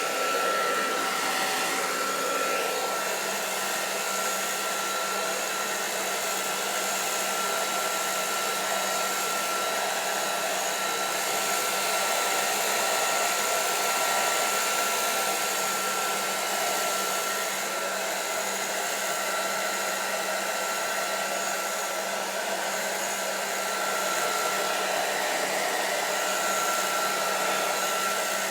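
Handheld hair dryer running steadily: a constant blowing hiss with a steady whine.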